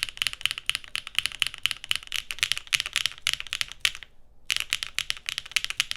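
Fast continuous typing on a Neo80 mechanical keyboard with HMX linear switches, a full, fairly deep clacky keystroke sound, with a brief pause about four seconds in.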